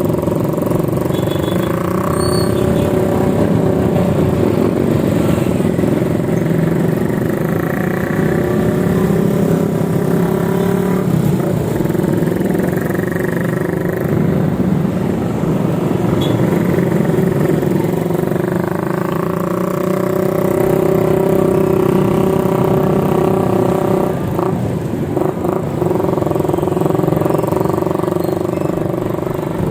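Motor traffic on a road: vehicle engines running close by, with pitches that shift as they speed up and slow down.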